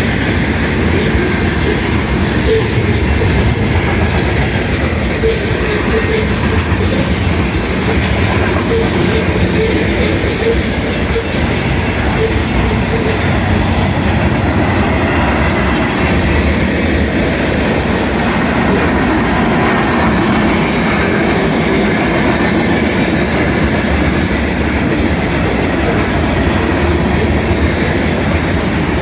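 Union Pacific manifest freight train's cars rolling past close by: a steady, loud rumble of steel wheels on rail with clickety-clack over the rail joints.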